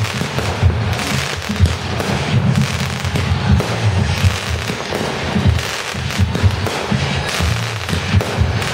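Consumer aerial fireworks going off in quick succession, with dense crackling and popping. Music with a strong bass plays underneath.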